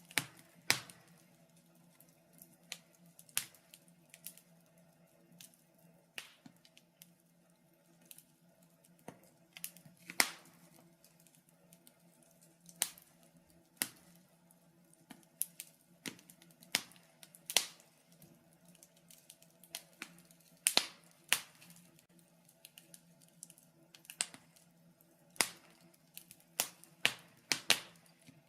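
Wood fire crackling in a fireplace: irregular sharp pops and snaps, sometimes several in quick succession, over a faint steady low background.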